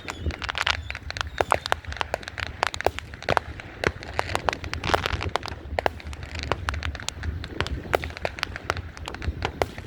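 Fireworks going off: a dense, irregular run of sharp bangs and crackles, some louder than the rest, over a steady low rumble.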